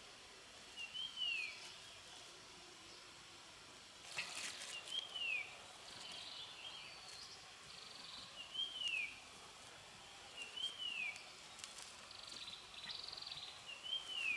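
Outdoor ambience with a bird repeating one short arched whistled note about every two seconds. A few sharp clicks or knocks come about four seconds in.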